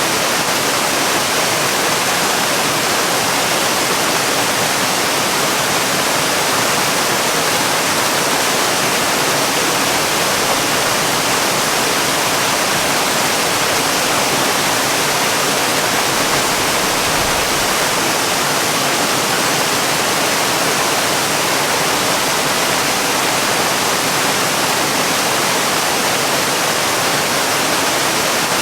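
Falling water from a waterfall: a steady, even hiss that does not change.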